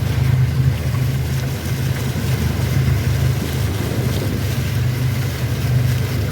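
A motor engine running steadily with an even low hum, keeping the same pitch throughout.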